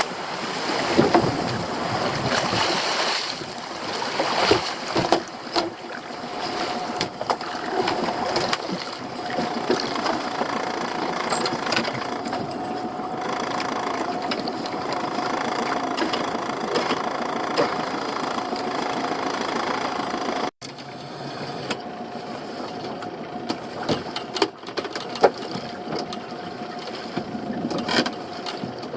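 A small fishing boat's engine running steadily with a constant whine, along with water noise and scattered knocks and clatter on deck.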